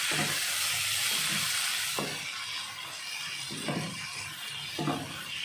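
Sliced onions, turmeric leaves and spice paste sizzling in oil in a frying pan as they are sautéed, with a few light knocks of a wooden spatula. The sizzle is strong at first and drops off about two seconds in.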